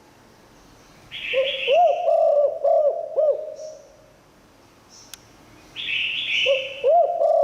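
Spotted dove cooing: two phrases of low, arching coo notes, the first starting about a second in and the second near the end, each opened by a short hoarse, higher sound.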